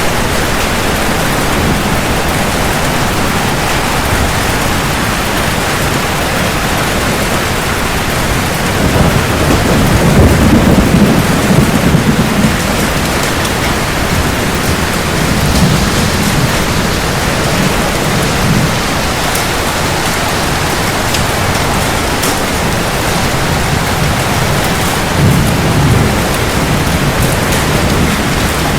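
Steady heavy rain falling, with rolls of thunder swelling in low rumbles about a third of the way in, again past the middle, and once more near the end.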